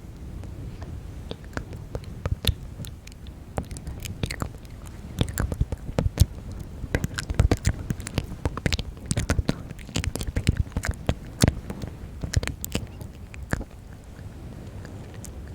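Close-up ASMR mouth sounds: rapid, irregular wet clicks and smacks, several each second, over a low rumble.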